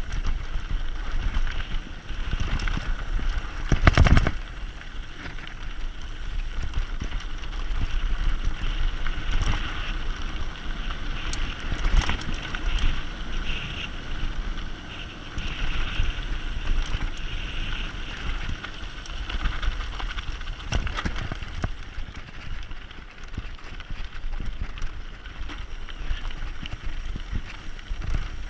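Mountain bike rolling down a dirt forest trail, the bike rattling over rough ground, with a few sharp knocks from bumps, the loudest about four seconds in. Wind rumbles on the action camera's microphone.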